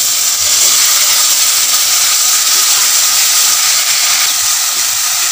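Wet ground masala paste of garlic, ginger, onion and dried chilli sizzling loudly and steadily in hot oil in a metal wok, just added and starting to fry.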